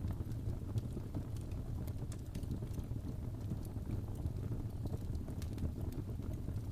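Wood fire in a fireplace crackling, with sharp irregular pops and snaps over a steady low rumble of flames.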